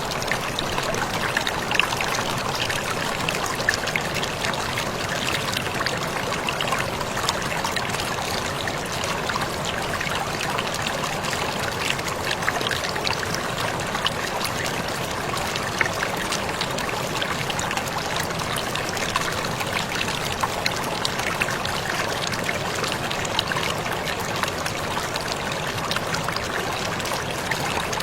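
Waterfall splashing: a steady rush of falling water with frequent small sharp splashes and drips.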